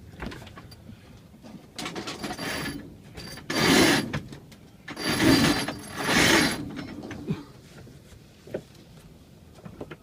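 Sailboat deck gear being worked: a line is hauled through blocks or a winch in four short rasping, clicking pulls, followed by a few light knocks.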